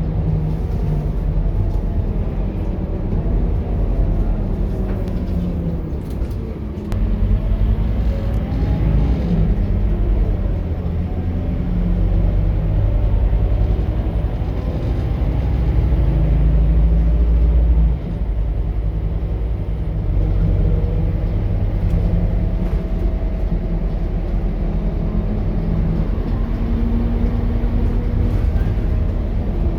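Scania K230UB bus with a five-cylinder diesel and ZF automatic gearbox under way, a steady low engine drone. The engine note builds for several seconds, then drops suddenly about two-thirds of the way through.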